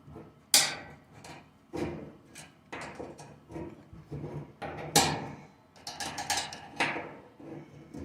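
Flathead screwdriver prying at the connector that holds a dryer drum support roller on its shaft: irregular clicks, scrapes and knocks of the tool on metal and plastic. The loudest knocks come about half a second in and at about five seconds, with a quick run of clicks a little later.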